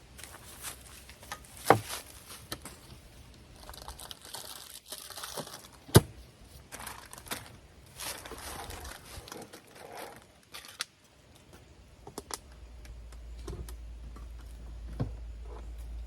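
Plastic food packaging crinkling and tearing as it is handled, with a few sharp clacks, the loudest about six seconds in. A low steady hum comes in about two-thirds of the way through.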